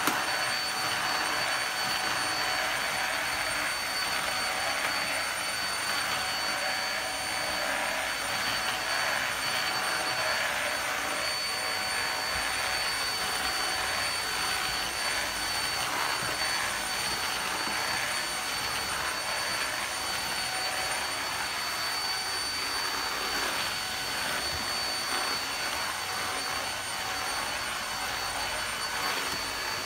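Handheld UV vacuum cleaner running steadily, its motor giving an even rushing noise with a steady high whine.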